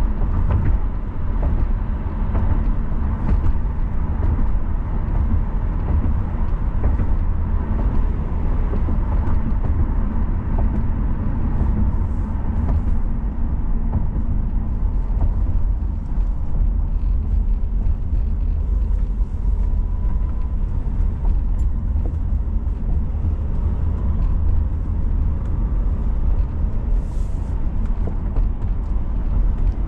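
Car driving along at a steady pace: a constant low rumble of road and engine noise with tyre hiss, unbroken.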